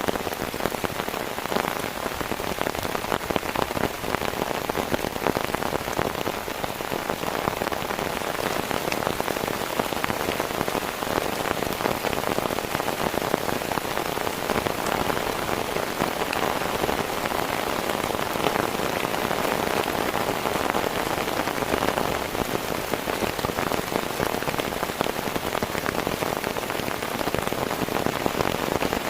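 Heavy rain falling steadily, a dense patter of countless drops striking a surface, with no let-up.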